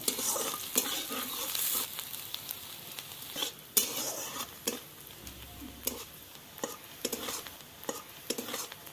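Chopped onion sizzling in hot oil in a wok, stirred and scraped now and then with a flat metal spatula. The scrapes come irregularly, with the loudest about four seconds in.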